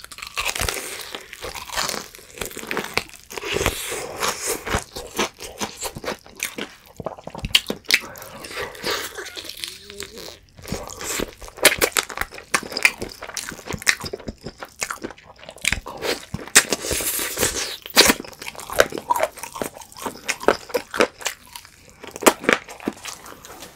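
Close-miked crunching and chewing of fried chicken with a thick, crumbly seasoned-powder coating, bite after bite, in quick irregular crackles.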